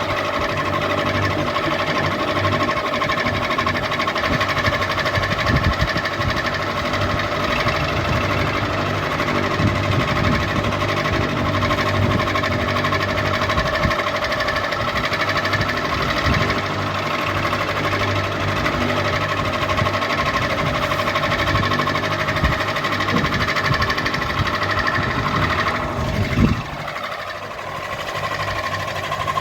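Ceiling fan running with a steady whine over a low, uneven rattling clatter. A thump comes about 26 seconds in, then the sound briefly drops before carrying on.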